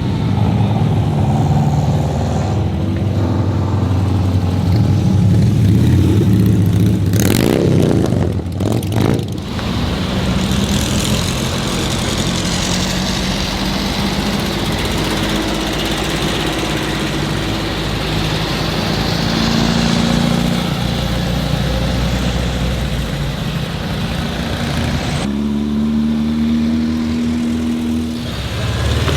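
Old cars' engines running at a parade, a steady engine hum that shifts in pitch several times, with a short loud rush of noise about seven to nine seconds in.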